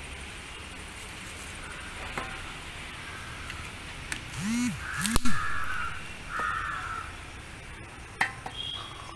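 A crow cawing two or three times, about midway, against a steady outdoor background, with a few sharp clicks, the loudest just after the first caw.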